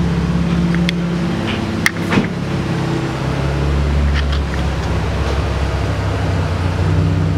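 Car engine idling steadily, with a couple of brief sharp clicks about two seconds in.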